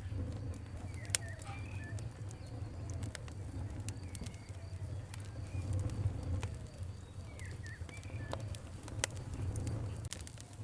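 Wood fire crackling, with irregular sharp pops and snaps over a low steady rumble. Birds call faintly in the background with short chirps and soft repeated low calls.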